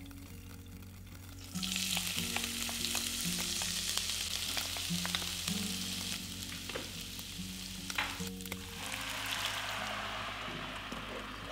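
Minced ginger and garlic sizzling in hot oil in a wok, starting about a second and a half in, with scattered taps and scrapes of the spatula as they are stir-fried. Near the end the sizzle turns lower and softer as the green chili sauce is poured in.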